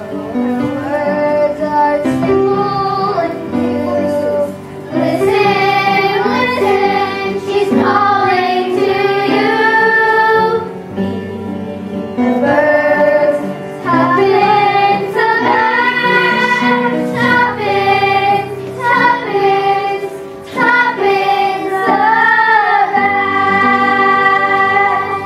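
Music: a slow song with a high female voice singing the melody over instrumental accompaniment.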